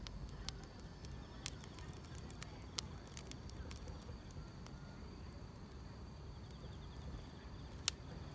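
Wood fire crackling, with scattered sharp pops (the loudest one shortly before the end), over a low steady rumble, while insects chirp faintly and steadily in the background.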